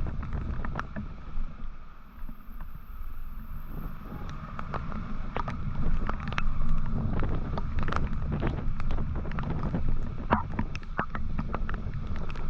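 Wind buffeting the microphone of a moving motorcycle, with the engine running underneath. Many short sharp clicks are scattered through it, and the rumble dips briefly about two seconds in.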